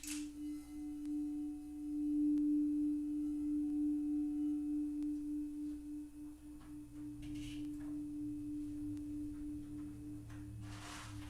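Crystal singing bowl sounding one steady, pure tone with a slow pulsing waver, swelling about two seconds in and then slowly fading. Near the end a soft hissing wash comes in.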